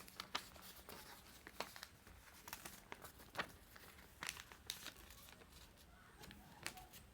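Faint rustling and crinkling of a sheet of paper being folded in half and creased, with scattered small crackles as the fold is pressed down.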